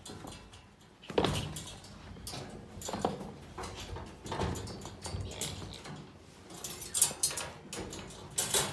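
Pet cats moving about in a cage: a series of irregular knocks and rattles, loudest about a second in and near seven seconds.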